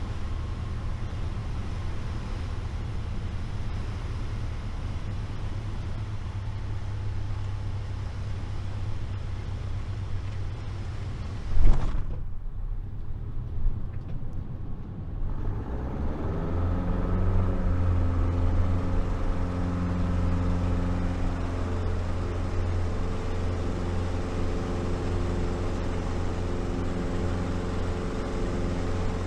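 Light single-engine piston aircraft making a touch-and-go, heard from the cockpit. The engine runs steadily at low power on approach, a sharp thump comes about twelve seconds in at touchdown, and the aircraft rolls briefly with the engine throttled back. The engine is then opened up to takeoff power with a rising tone and settles into a loud steady drone for the climb-out.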